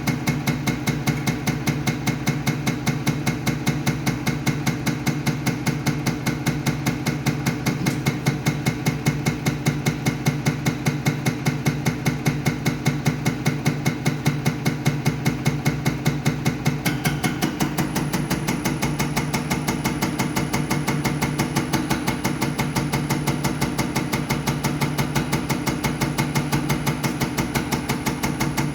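Diesel injection test bench running a Mercedes Actros unit pump, with a steady hum under a rapid, even knocking of about four strokes a second. A little past halfway the note shifts and a thin high whine comes in, as the bench moves to another test step.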